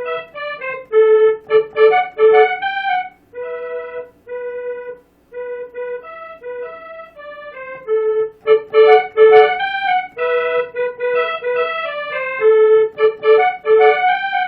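Korg N364 keyboard workstation playing a melody on a layered saxophone-and-musette accordion patch. The melody comes in quick short notes grouped in phrases, with brief pauses between them.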